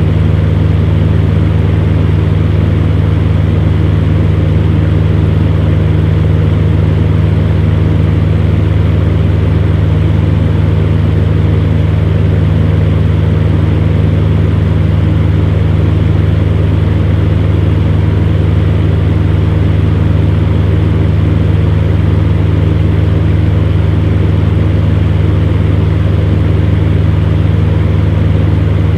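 Electric fan running steadily: a constant low motor hum under an even rush of moving air, with no change in speed.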